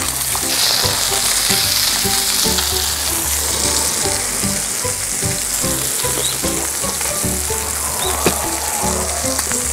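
Sliced pork belly sizzling and frying on a hot stone slab over a wood fire, a steady hiss throughout.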